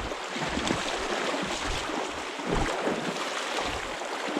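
Steady rush of flowing creek water, with irregular low buffets of wind on the microphone.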